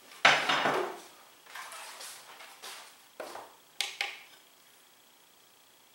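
Parts of a Presto MyJo portable single-cup coffee maker being handled: a loud clatter about a quarter second in, then several lighter knocks and taps over the next few seconds.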